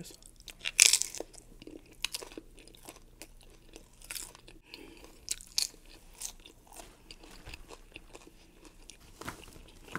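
Close-miked biting and chewing of crunchy tortilla chips. There is one loud crunch about a second in, then smaller crunches through the rest.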